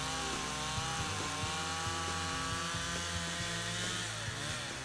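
Stihl MS 170 gas chainsaw cutting through a maple log, the two-stroke engine held high under load with its pitch wavering. The pitch dips and picks up again near the end.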